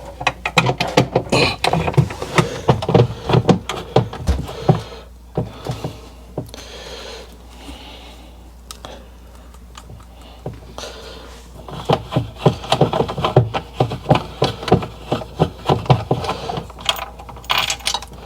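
Rapid clicking and rattling of a hand tool working at a screw in a refrigerator's plastic panel, in two busy spells with a quieter stretch in the middle.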